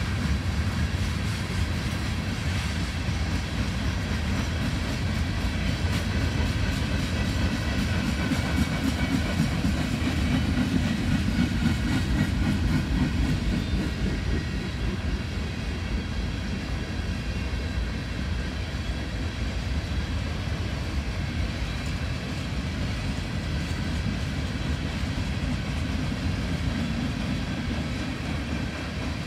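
Freight train cars rolling past at steady speed: a continuous rumble of steel wheels on rail.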